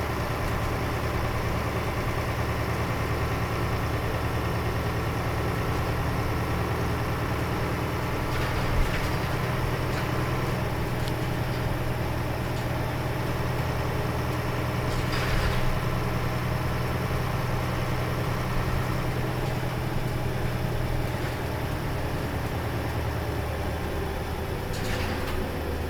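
Diesel engine of a Nissan Diesel KL-UA452KAN city bus running, heard from inside the cabin as a steady low drone that shifts lower about 20 seconds in. Three brief hissing noises come through over it.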